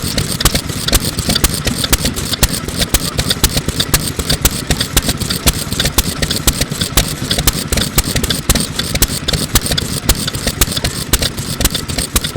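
Circa-1950 Mikawa 2 hp stationary oil engine running steadily, its exhaust popping from a small muffler in a quick, even beat of sharp cracks.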